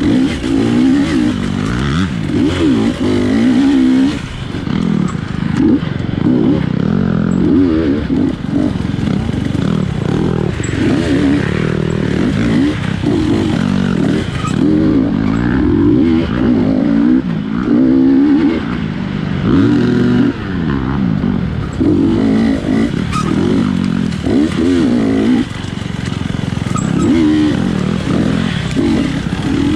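250cc GasGas dirt bike engine revving hard and constantly, its pitch climbing and dropping every second or two as the throttle is worked on and off.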